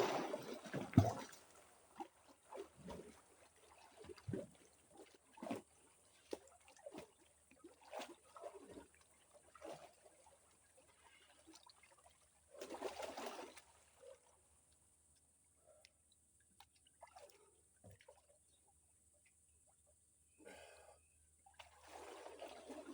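Water splashing and trickling as a swimmer moves through it, in short scattered splashes with quiet gaps and a longer splash about thirteen seconds in.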